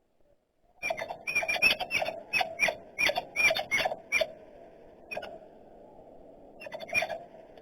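A rapid series of sharp, high animal chirps, about three a second for some three seconds starting about a second in, then one more and a short burst of a few near the end.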